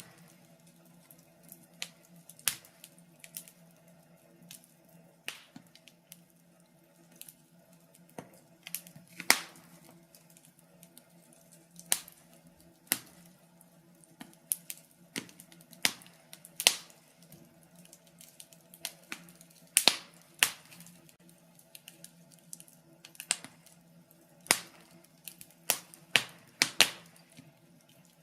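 Wood fire in a fireplace crackling: irregular sharp pops and snaps, some single and some in quick clusters, a few much louder than the rest. A faint steady low hum runs underneath.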